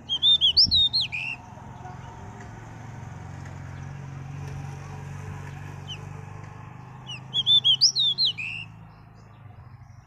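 Pied bushchat singing two short, quick phrases of high whistled notes, one at the start and one about seven seconds in. A faint low steady hum lies between the phrases.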